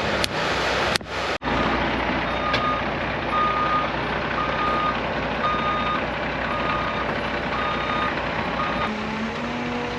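Truck's reversing alarm beeping steadily about once a second over a running engine. The beeping starts a couple of seconds in and stops near the end.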